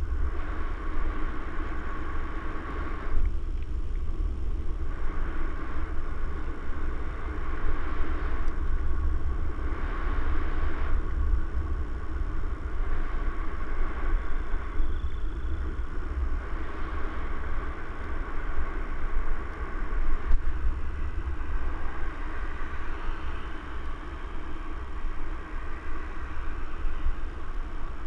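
Heavy wind rumble on the microphone over a steady rushing noise, rising and falling unevenly, as from a camera carried along on a moving mountain bike.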